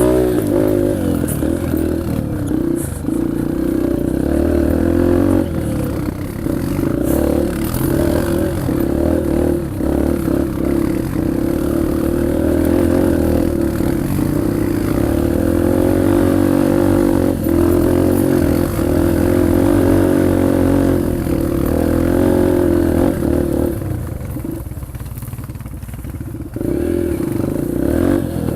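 Yamaha TT-R125LE dirt bike's single-cylinder four-stroke engine working under load on a steep hill climb, its pitch rising and falling with the throttle. It eases off and quietens a little near the end, then picks up again.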